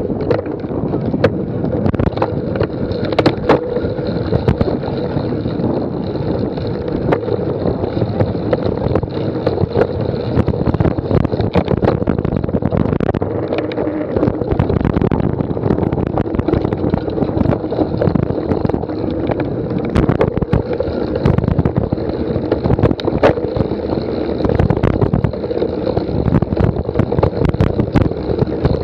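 Steady wind rushing on the microphone, with many small rattles and knocks throughout, like a bicycle being ridden over rough cyclocross ground.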